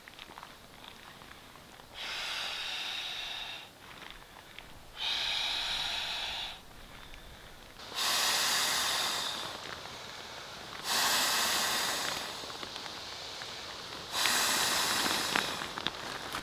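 Blue inflatable sleeping pad being inflated in five long puffs of air, each lasting a second or two and coming about every three seconds. The last three puffs are louder.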